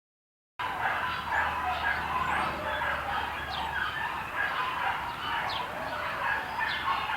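A dense, continuous chorus of many overlapping bird calls with a few quick high chirps, starting abruptly about half a second in.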